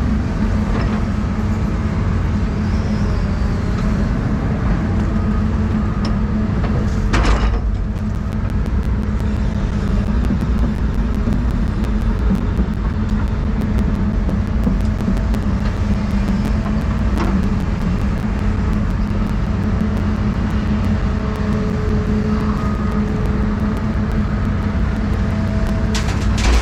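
Doosan 350 excavator's diesel engine running steadily under working load as it digs and loads mud, with a single sharp thud about seven seconds in and a few clicks near the end.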